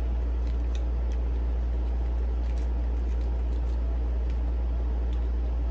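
Air conditioner running with a loud, steady low hum and even hiss. A few faint clicks of chewing salad come through on top.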